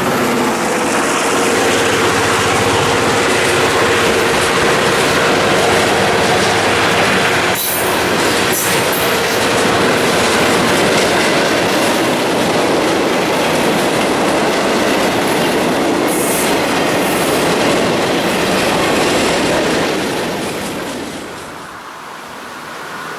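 Cars of a long mixed freight train rolling past: steady wheel and rail noise with clickety-clack over the rail joints, a few sharp clanks, and a passing wheel squeal. The noise fades near the end.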